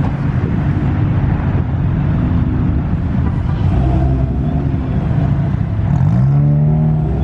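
Car engines running close by, with one engine revving up about six seconds in and holding at the higher pitch.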